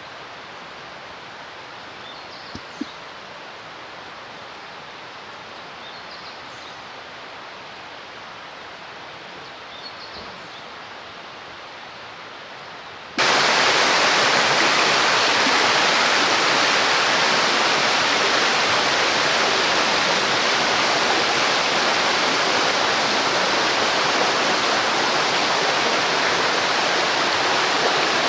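Faint outdoor ambience with a few short, high chirps, then about halfway through a loud, steady rush of water starts suddenly and keeps going.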